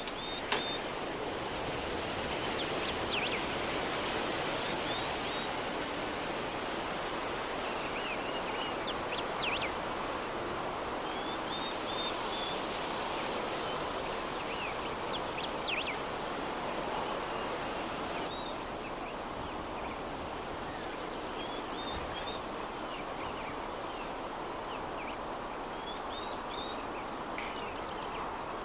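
Steady soft breeze, an even hiss of moving air, with small birds giving brief chirps every few seconds.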